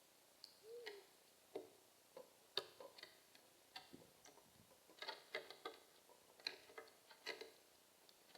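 Faint, irregular sharp taps and clicks, several in quick clusters: birds pecking.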